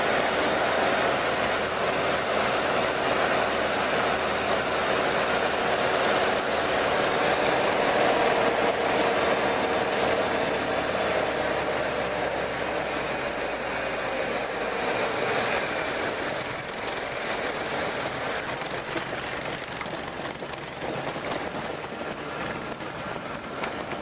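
Nanchang CJ-6 aircraft's nine-cylinder radial engine running, loudest about a third of the way in, then slowly fading, its pitch dropping slightly around the middle.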